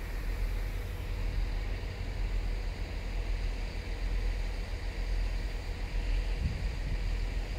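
Diesel multiple-unit train pulling away into the distance, a low steady rumble, mixed with wind buffeting the microphone.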